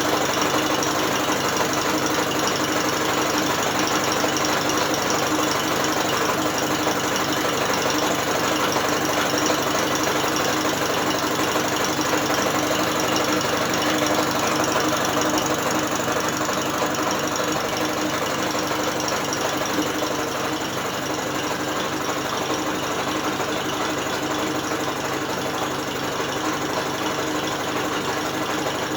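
British Seagull outboard motor being spun over by an electric drill, not firing: a steady mechanical whirr and clatter of the drill and the engine's moving parts turning. It gets slightly quieter about two-thirds of the way through.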